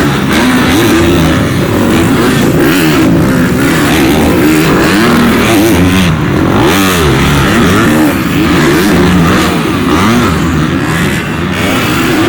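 Supercross dirt bikes lapping a track, engines revving up and down repeatedly as riders throttle on and off, with several bikes' pitches overlapping.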